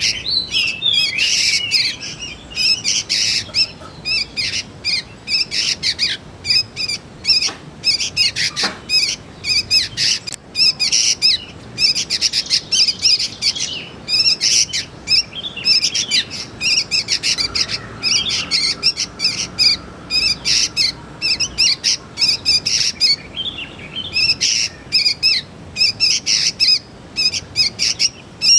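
Young sooty-headed bulbuls calling: a dense, unbroken run of short, high chirps, several a second, with only brief gaps.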